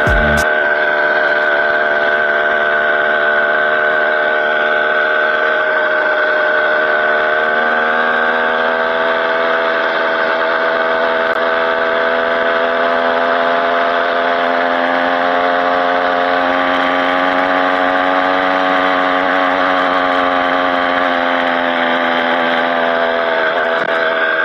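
Motorized bicycle's small engine running steadily under way, its note rising and falling slightly with speed.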